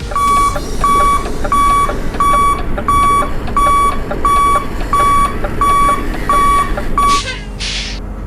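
Truck reversing alarm beeping steadily, a single-pitched beep just under twice a second, stopping near the end, followed by two short hisses like air being released.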